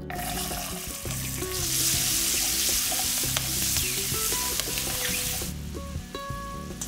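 Green peas sizzling as they are tipped into hot oil and whole spices in a steel kadai and stirred with a wooden spatula. The sizzle starts at once, then dies down about five and a half seconds in as the peas fry on low heat.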